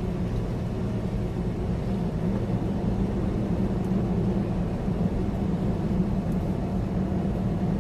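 Semi truck's diesel engine and tyres droning steadily inside the cab, cruising at highway speed, a constant low rumble.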